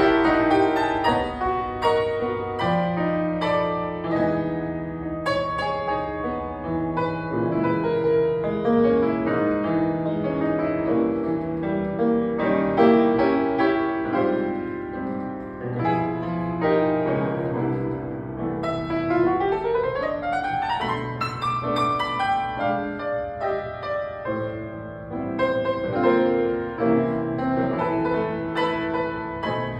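Piano playing, with a quick rising run of notes about two-thirds of the way through.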